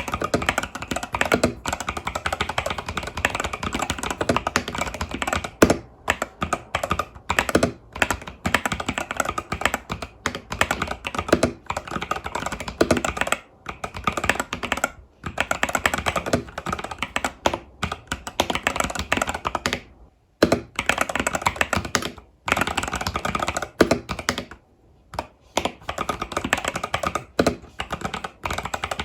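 Typing on an Epomaker TH80 Pro mechanical keyboard with Epomaker Budgerigar tactile switches and stock keycaps: a steady stream of rapid key clacks, broken by a few short pauses.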